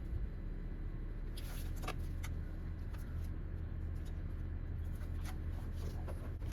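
A few light clicks and handling sounds from hands working a plastic electrical connector clip on an engine sensor, over a steady low hum.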